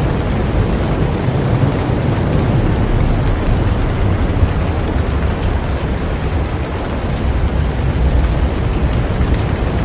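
Heavy rain falling on a boat: a steady, loud hiss of rain over a deep, continuous rumble.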